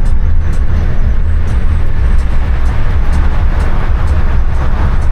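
Car driving on a city road, a steady low rumble of road and engine noise heard from inside the vehicle.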